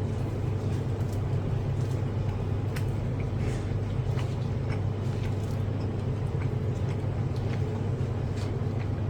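A steady low hum, with a few faint clicks and smacks of eating scattered through it.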